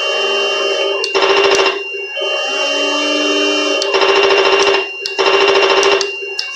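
Heng Long 6.0 RC M1A2 Abrams tank's electronic sound unit playing a steady whining engine sound through its small speaker. Three loud rattling bursts, each under a second, cut in over the whine.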